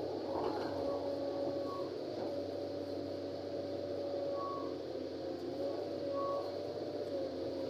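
LiuGong 920D excavator working, its engine and hydraulics giving a steady whine that wavers slightly in pitch, with a few short higher whines.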